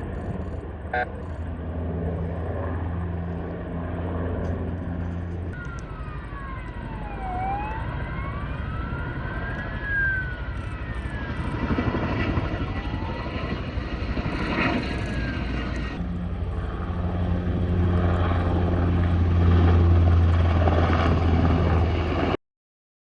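Firefighting helicopter's rotor and engine running steadily, with a wailing tone that rises and falls several times through the middle. The sound cuts off abruptly near the end.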